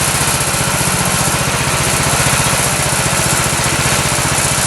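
Small gasoline engine of a Woodland Mills HM126 portable band sawmill running steadily at a constant speed.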